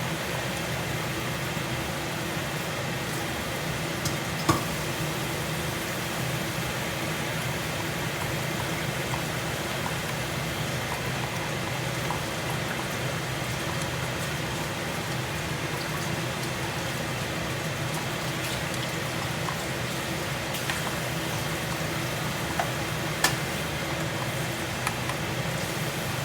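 Steady hum of a noisy kitchen exhaust fan over the bubbling and sizzling of a pan of bolognese sauce cooking, with two sharp clicks, one about four seconds in and one near the end.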